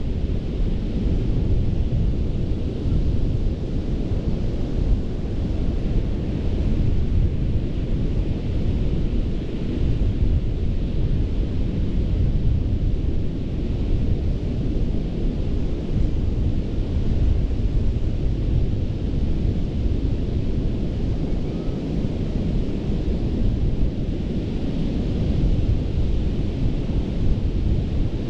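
Gulf of Mexico surf breaking and washing on a sandy beach, a steady rush of waves with a hiss that swells every several seconds, under a deep low rumble of wind on the microphone.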